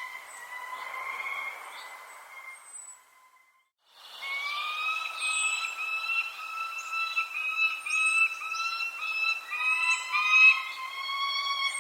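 Birds calling: short, high, falling chirps over a sustained, wavering whistle-like tone. The sound cuts out briefly about three seconds in and then resumes.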